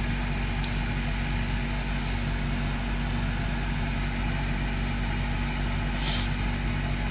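Steady low mechanical hum, with a brief hiss about six seconds in.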